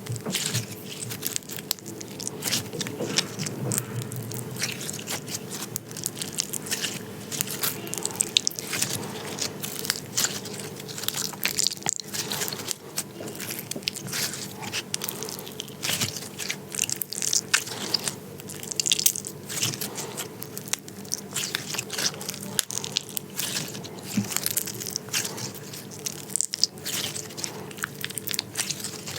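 Glitter slime being squeezed and worked by hand, a dense, irregular run of small crackles, clicks and wet squelches.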